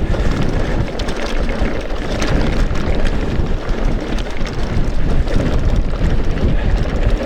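Merida Big Trail 500 mountain bike riding over a rough off-road track: a steady rumble of tyres on the ground with scattered small knocks and rattles, mixed with wind noise on the action camera's microphone.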